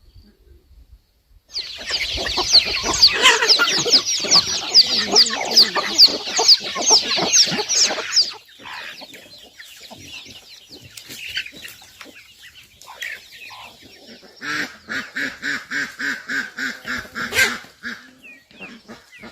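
Farm poultry flock calling. A loud, dense chorus of quick high chirps starts about a second and a half in and stops at about eight seconds, followed by quieter scattered clucking. Near the end comes a fast run of repeated calls lasting about three seconds.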